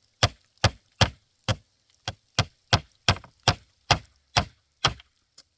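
About a dozen sharp, evenly paced strikes on wood with a hand tool, two to three a second, stopping near the end.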